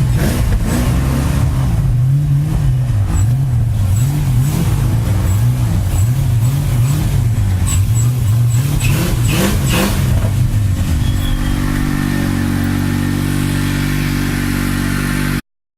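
Car engine revving up and down in quick, repeated swells, the sound of a car straining for grip in snow, then settling to a steady run about ten seconds in before cutting off suddenly.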